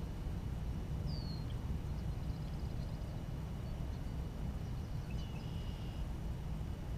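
Small birds calling: a short falling chirp about a second in and a longer held call about five seconds in, over a steady low rumble.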